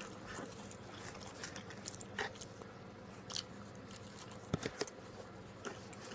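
A person chewing pizza close to the microphone, with scattered soft wet mouth clicks.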